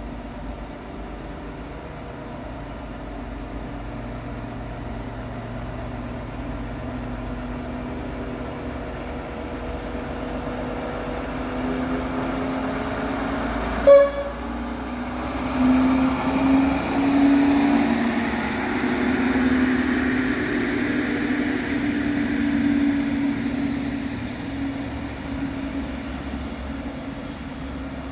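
Class 628 diesel multiple unit running in and passing close by. Its engine and wheels grow louder, a short horn toot sounds about halfway through, and the engine sound then fades as the unit moves away.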